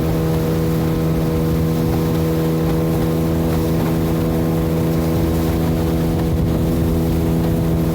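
Boat motor running at a steady speed, one even pitch throughout, with rushing wind and water noise over it.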